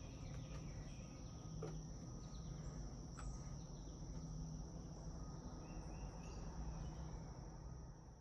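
Crickets trilling in one steady, continuous high-pitched tone, with a low rumble of background noise underneath.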